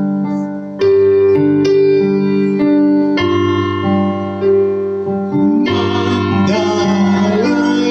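Worship music on an electric keyboard: sustained piano chords changing every second or so, with a singer's voice entering over them about two-thirds of the way through.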